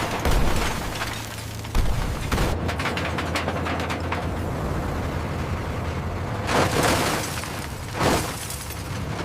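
Heavy scrap-processing machinery working on car bodies: metal crunching and breaking, with sudden bangs, a stretch of rapid crackling, and two louder surges near the end.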